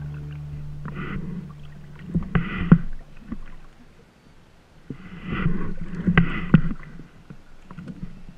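The last held chord of a song fades out over the first two seconds. Then come a few short bursts of water splashing and slapping, with sharp knocks, against the hulls of a small Hobie Wave catamaran under sail.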